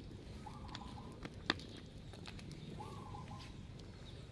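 Faint outdoor background with a bird's short call repeated twice at even spacing, and a single sharp click about a second and a half in.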